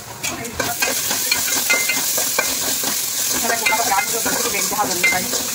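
Onions frying in oil in a pan, a steady sizzle, with scattered clicks and clatter.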